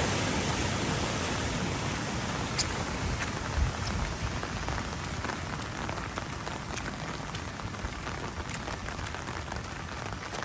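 Steady rain falling, with scattered drops ticking sharply close by. A rush of water, heaviest at the start, eases over the first couple of seconds.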